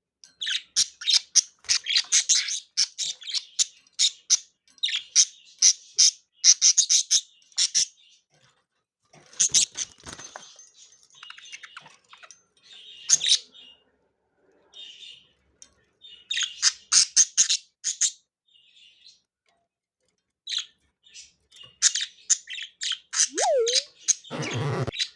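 Several pet budgerigars chirping and chattering in fast runs of short, high chirps, coming in spells with short pauses between. There are two brief noisy rushes: one about ten seconds in and another near the end.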